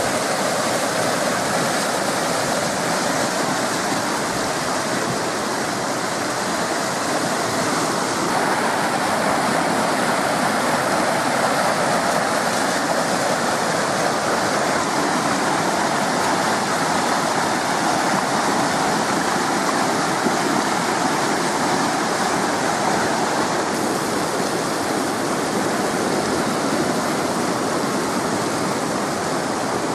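Whitewater rapids rushing steadily in a man-made whitewater course channel.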